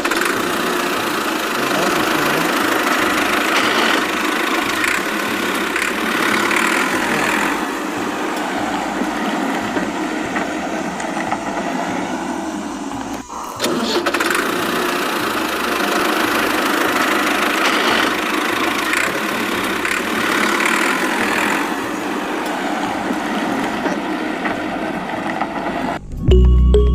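Steady motor running noise, continuous apart from a brief break about 13 seconds in. Music comes in right at the end.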